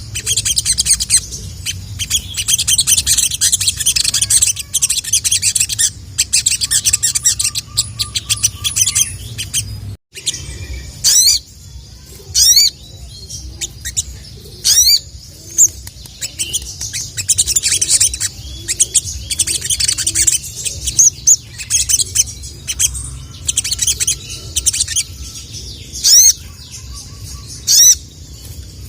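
Sogok ontong (sogon, ruby-cheeked sunbird) singing in rapid high chittering runs, broken by sharp upswept "cuit" notes repeated every second or two. The song stops briefly about a third of the way through, and a steady low hum runs beneath.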